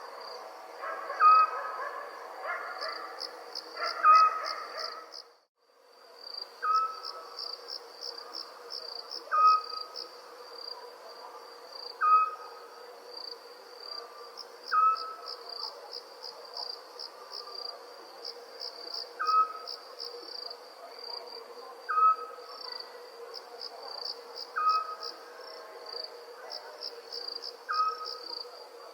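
Crickets chirping in a steady, pulsing chorus while a small owl gives a short hoot repeated about every two and a half seconds. The sound drops out briefly about five seconds in, and the chorus and calls resume.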